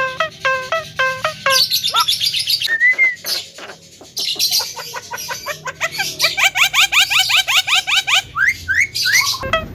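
Javan myna calling: a mix of sharp chirps and a short whistled note, then a fast run of rising chirps for about two seconds. Background music with a steady beat plays in the first second and a half and returns near the end.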